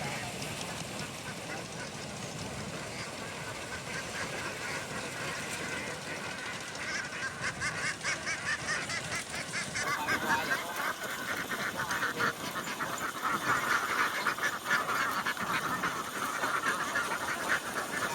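A large flock of domestic ducks quacking together in a dense, continuous chorus that grows louder and busier about halfway through.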